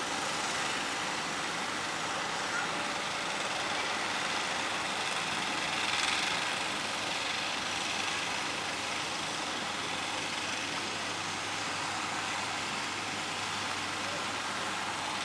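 Steady rushing roar of surf with a faint low engine hum underneath, swelling briefly about six seconds in.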